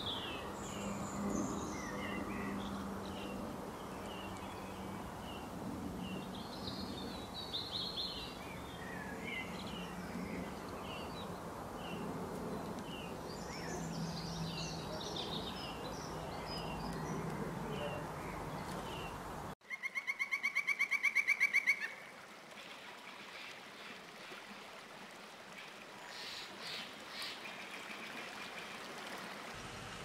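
Small songbirds chirping and singing over a steady low background hum. About two-thirds of the way in, the sound cuts abruptly to a loud, rapid pulsing tone lasting about two seconds and growing louder, followed by quieter outdoor ambience.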